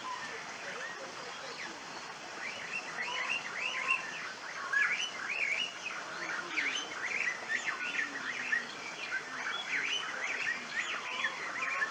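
Many birds chirping and chattering together, a dense, overlapping run of short, quickly rising and falling calls that begins a couple of seconds in.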